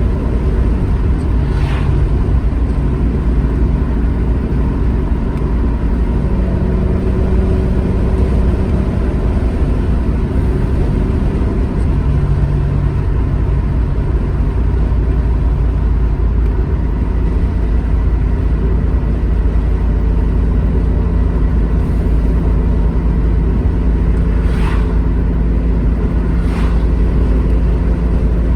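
Alfa Romeo GT Junior's twin-cam four-cylinder engine running steadily under way, with road rumble, its pitch shifting a few times as the revs change. A few faint ticks near the start and near the end.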